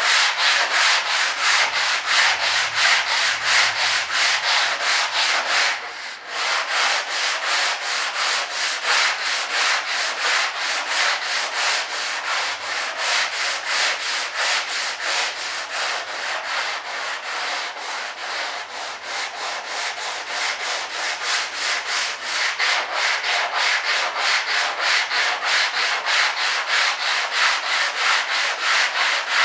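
Sandpaper being worked back and forth by hand over Bondo body filler, a fast steady rasp of about three to four strokes a second, with a brief pause about six seconds in.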